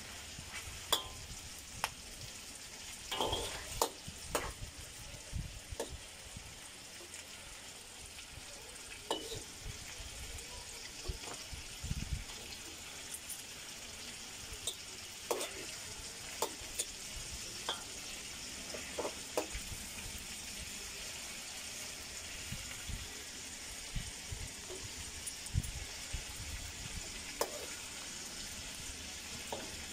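Pork cubes and chicken drumsticks sizzling in oil in a steel wok, with a steady frying hiss and scattered clicks and scrapes of a metal spatula stirring them, busiest a few seconds in and again around the middle.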